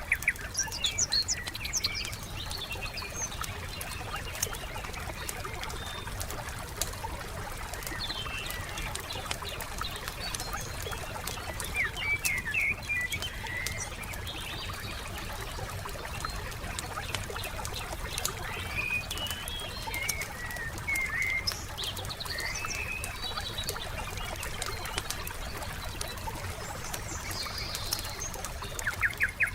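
Wood fire crackling with scattered sharp pops over a low steady rumble, while small birds chirp and trill now and then, with quick trills near the start and near the end.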